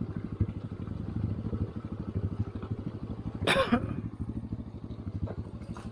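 Motorcycle engine running at low revs with a steady, even chugging beat. A single short, sharp noise cuts in about three and a half seconds in.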